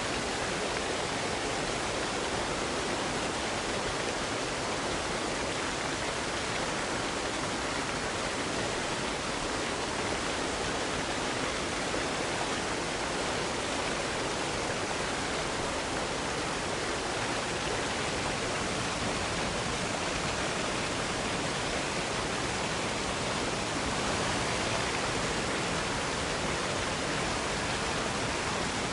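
Cascading waterfall: a steady, even rush of falling water with no breaks or changes.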